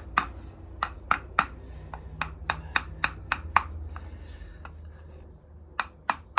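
Light hammer taps on a new VW Beetle air-cooled engine crankshaft oil seal, struck through the old seal to drive it evenly into the case, about three taps a second. The tapping pauses for about two seconds past the middle, then starts again near the end.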